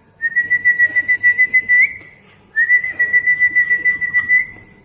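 A person whistling two fluttering, steady high notes, each about a second and a half long and ending with a small upward flick, with a short pause between them.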